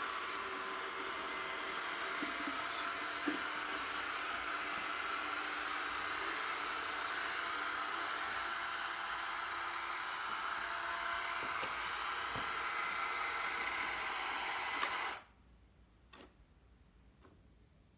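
Roomba 980 robot vacuum running with a steady hum from its vacuum and brush motors, which cuts off abruptly about fifteen seconds in, consistent with the robot shutting down on reaching its charging base. A few faint clicks follow.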